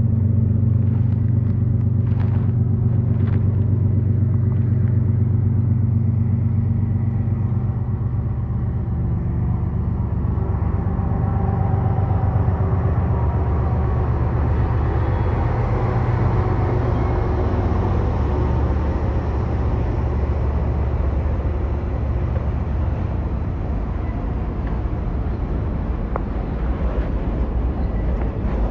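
Yamaha MT-07's 689cc twin-cylinder engine running steadily under a rider, with rushing road and wind noise building up from about ten seconds in.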